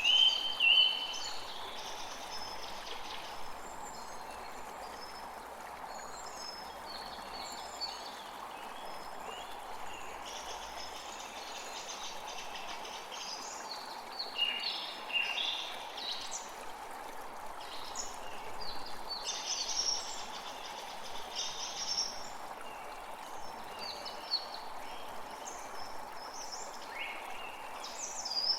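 Steady rush of a flowing creek, with several songbirds calling and trilling over it throughout; the loudest calls come right at the start.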